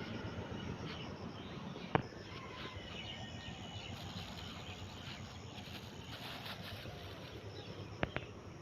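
Outdoor rural ambience with a faint short bird call, broken by a sharp click about two seconds in and a quick pair of clicks near the end.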